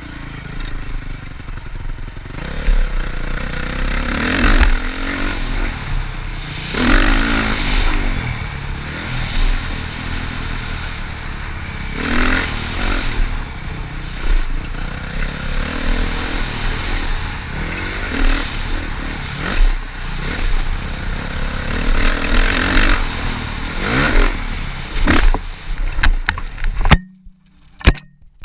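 Motocross bike's engine running hard as it is ridden, its pitch rising and falling with repeated revving over a heavy low rumble. Near the end the engine sound cuts off abruptly and music starts.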